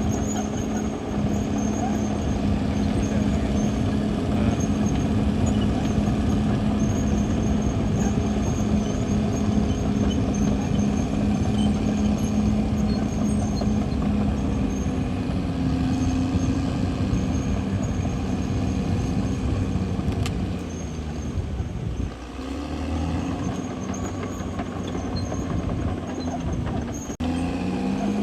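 Caterpillar D6R XL bulldozer's diesel engine running steadily under load, a heavy low drone. It eases and turns quieter for the last several seconds.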